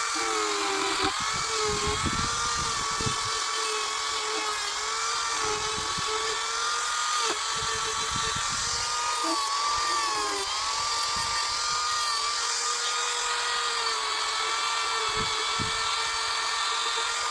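A high-speed power tool motor running continuously as it carves wood. Its high whine wavers and dips briefly a few times under load.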